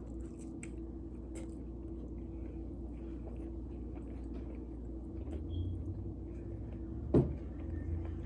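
Close-up chewing and small wet mouth clicks of someone eating, over a steady low background hum, with one sharper click about seven seconds in.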